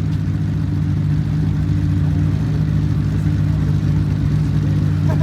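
Sports car engines idling steadily, a deep, even low hum with no revving.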